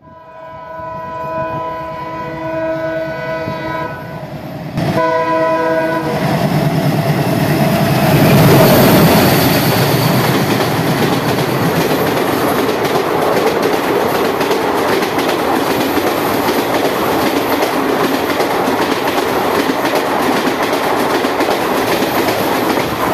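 ALCO diesel locomotive sounding its multi-tone horn in one long blast and a short second blast. The train then runs past close by, loudest about nine seconds in. This is followed by the steady rush and clatter of passenger coach wheels over the rails.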